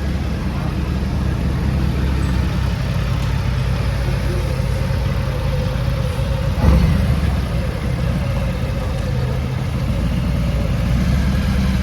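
Sport motorcycle engine idling steadily, with one short louder thump about two-thirds of the way through.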